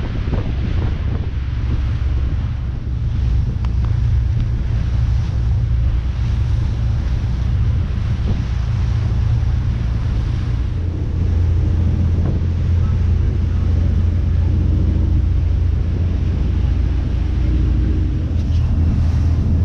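Wind buffeting the microphone out on open water, a heavy steady rumble with a low drone underneath that grows stronger about eleven seconds in.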